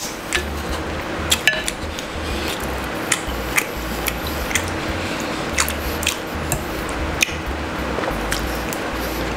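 Close-miked eating: a man chewing steamed rice cake dipped in pork blood stew, with wet mouth clicks and smacks at irregular moments, about a dozen sharp ones.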